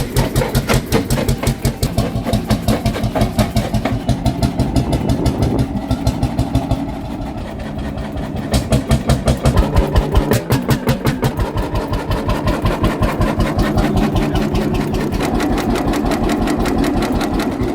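Single-cylinder hot bulb engine running on crude oil, a fast, even beat of firing strokes. The beat grows stronger and sharper for a few seconds past the middle, then eases back to a steady run.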